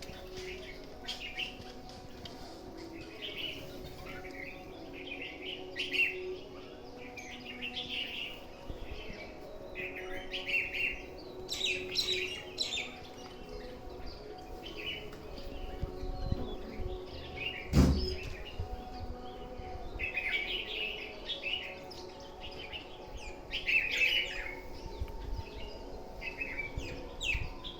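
Sparrows chirping in short, quick calls that repeat every second or so, with one sharp knock about two-thirds of the way through.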